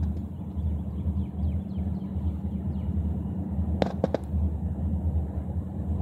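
Train rumbling steadily, with a quick cluster of sharp metallic clanks about four seconds in.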